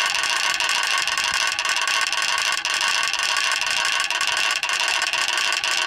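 Wooden Easter ratchet (Klapper or Rappel) being cranked continuously, a dense, steady rapid clacking that starts abruptly. It is the Holy Week rattling that stands in for the silent church bells from Maundy Thursday evening to Holy Saturday evening.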